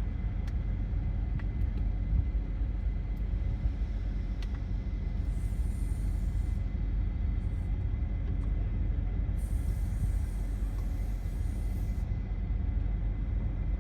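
Steady low rumble of a car, with a few faint clicks and a high hiss that comes in twice for a second or two.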